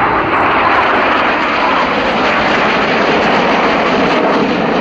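Red Arrows BAE Hawk T1 jets flying past in their display: a loud, steady rush of jet engine noise that holds constant throughout.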